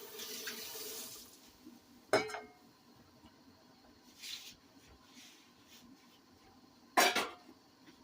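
A kitchen faucet runs and shuts off about a second in. Then pots or utensils clank sharply twice, a couple of seconds in and near the end, with a softer scrape in between.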